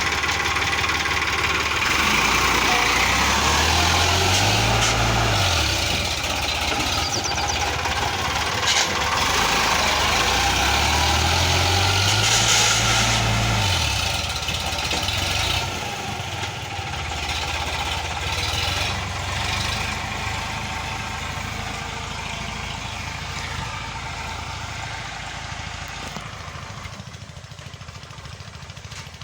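Sonalika tractor's diesel engine running, revved up twice and eased back. It then grows gradually fainter.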